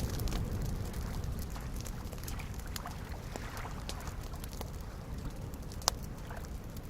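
Wood fire crackling with scattered sharp pops, one louder pop about six seconds in, over a steady low wash of small waves lapping at a lakeshore.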